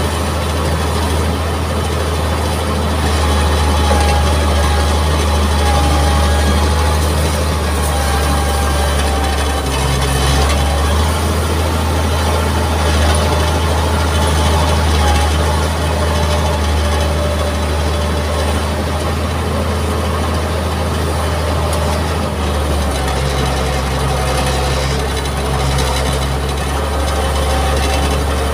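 Mitsubishi MG330 motor grader's diesel engine running steadily, its low tone shifting slightly about ten seconds in and again near twenty-three seconds.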